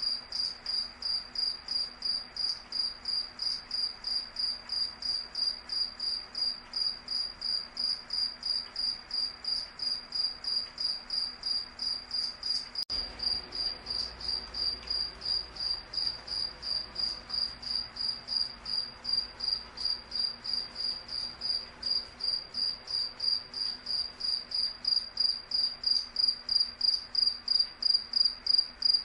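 A cricket chirping in a steady, even rhythm of about two to three high-pitched chirps a second, one clear tone, growing a little louder near the end.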